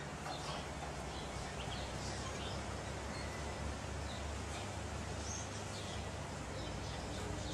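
Scattered short, high bird chirps over a steady outdoor background hiss with a low rumble.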